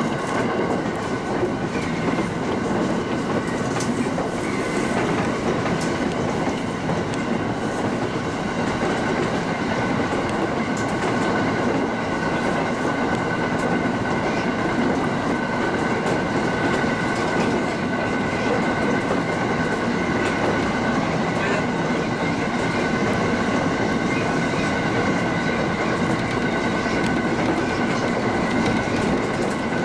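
Local train running at speed between stations, heard from inside the car: a steady rumble of wheels on rail with a thin, steady high whine over it.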